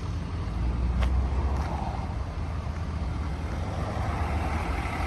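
Ford 6.7 L Power Stroke V8 turbo-diesel idling steadily, a low even rumble, with one light click about a second in.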